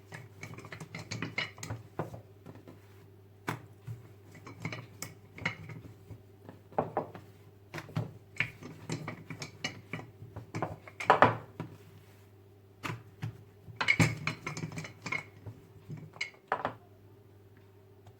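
Dishes and cutlery being handled: irregular clinks, knocks and clatters, with a louder clatter about eleven seconds in and another around fourteen seconds, over a steady low hum.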